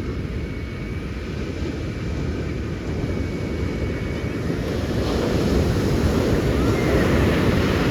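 Ocean surf breaking and rushing up the beach, swelling louder about five seconds in as a large wave comes through, with wind rumbling on the microphone.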